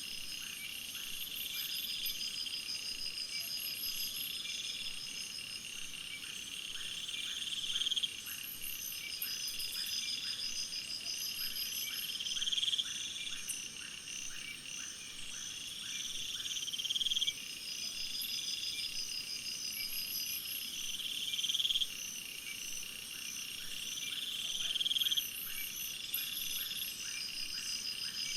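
A dense chorus of calling insects and frogs: several overlapping trains of rapid, high-pitched pulses. One call swells louder over about four seconds and then cuts off sharply, repeating every four to five seconds.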